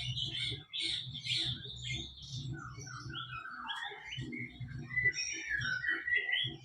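Birds chirping and twittering in quick, varied calls, some gliding up or down. Underneath is a run of soft knocks, several a second.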